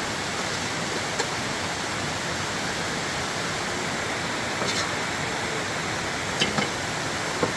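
Steady rushing noise of water, with a few light clicks or knocks over it.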